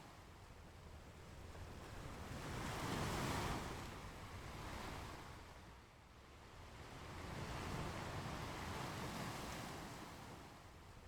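Ocean waves washing onto a beach in slow surges that swell and fade. The loudest comes about three seconds in, with another long swell from about seven to nine seconds.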